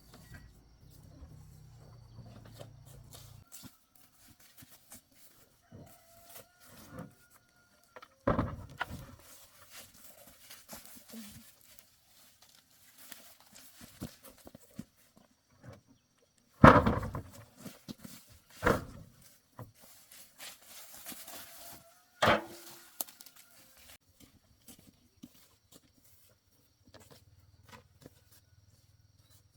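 Scattered sharp knocks and clanks from tools and parts being handled during tractor repair work, four of them loud, with quieter handling sounds between.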